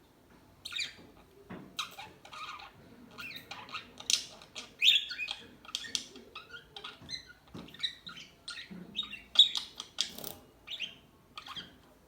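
Pet parakeets chattering: a rapid, uneven string of short chirps and squawks that starts about half a second in.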